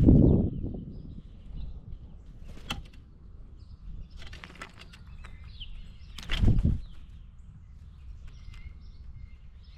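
Bird wings flapping close to the microphone in two loud whooshes, one at the start and one about six and a half seconds in, with faint bird chirps and small ticks between them.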